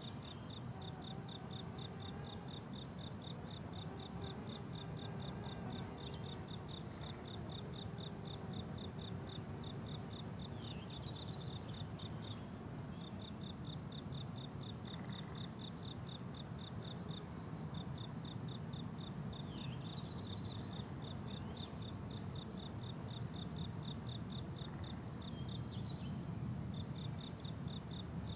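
Several crickets chirping together in fast, even, high-pitched pulses that go on without a break, with at least two singers at slightly different pitches.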